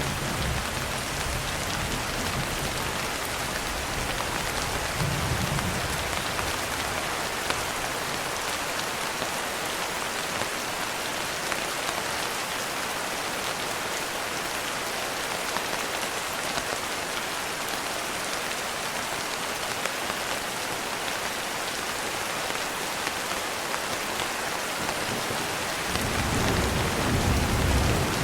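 Steady heavy rain falling. Low rumbles of distant thunder come at the start, again about five seconds in, and swell near the end.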